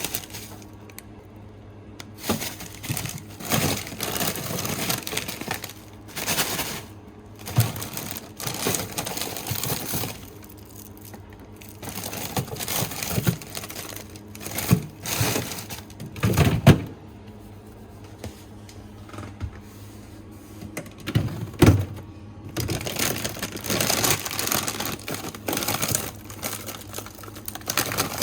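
Food packages and containers being handled while sorting a fridge and freezer: irregular plastic rustling and crinkling with scattered knocks and clunks.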